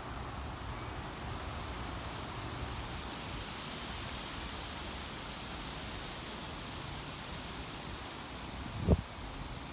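Strong gusty wind rushing steadily through trees and leaves, swelling a few seconds in, ahead of a storm. A brief loud thump near the end.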